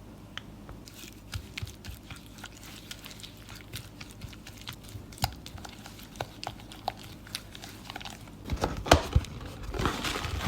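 Sticky, wet mixing sounds with scattered small clicks as a butter, sugar, egg and corn syrup mixture is worked in a bowl. A few louder knocks come near the end, followed by crinkling.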